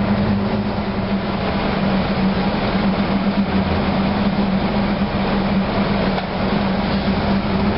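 Steady engine-room drone of a MaK 8M32 eight-cylinder in-line medium-speed marine diesel, running at low speed just after start-up, with an unbroken low hum over dense machinery noise.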